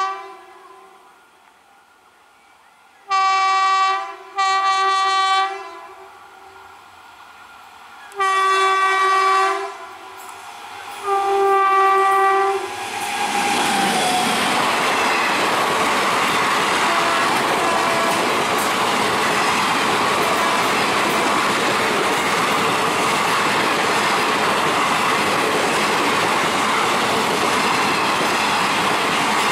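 Indian Railways locomotive horn sounding as the train approaches at speed: a pair of short blasts, then two longer ones a few seconds apart. After about 13 seconds the locomotive and its coaches pass close by with a loud, steady noise of wheels on rails.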